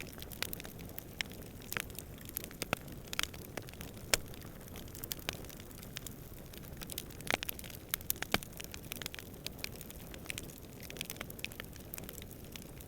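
Wood campfire crackling, with sharp pops and snaps at irregular intervals over a steady low rush of distant wind. A few pops, about four and seven seconds in, stand out louder than the rest.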